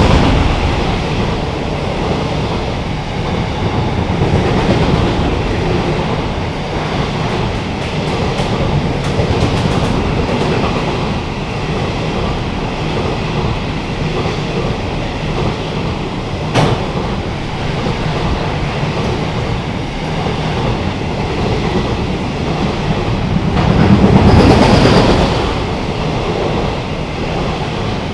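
Train running past with a steady rolling rumble, growing louder for a moment near the end, with a single sharp click about two-thirds of the way through.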